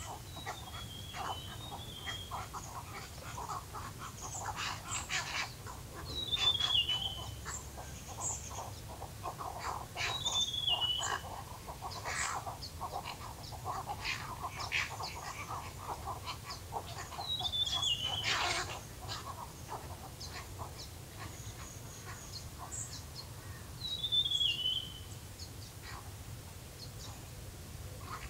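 Birds calling: a high, falling call repeats every few seconds over a busy background of short chirps and clicks.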